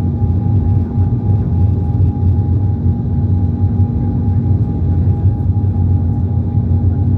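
Steady low rumble inside the cabin of an Embraer 195 airliner with its General Electric CF34 turbofan engines running, carrying a constant two-note hum.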